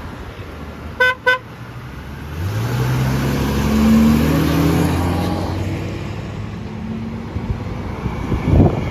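A vehicle horn gives two quick toots. Then a heavy truck's engine rumble swells as it passes close by and fades away.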